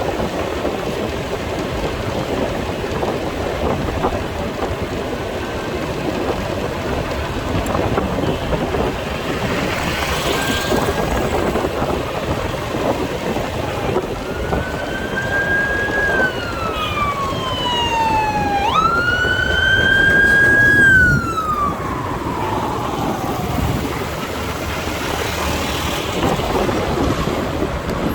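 Motorcycle engine and wind noise while riding in traffic, with an emergency vehicle siren wailing over it in the second half: a long falling sweep, a sudden jump back up, then another hold and fall, loudest about two-thirds in.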